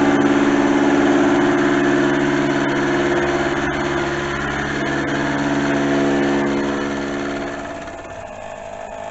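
Milling machine running a finishing pass on a steel block under power feed: a steady motor and cutter sound that drops away near the end as the cut finishes.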